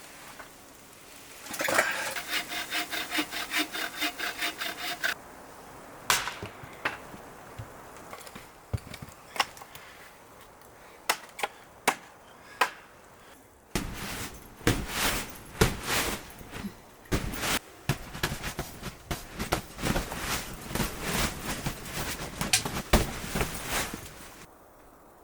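Wood being cut with a hand saw: a run of quick, even back-and-forth strokes, a pause broken by a few knocks, then a longer stretch of sawing.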